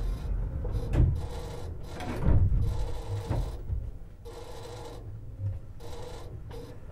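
Underfloor sounds of a Tobu 50090 series electric train standing at the platform as its doors close: a steady hum with three dull knocks and some rasping in the first half, then quieter as it readies to pull away.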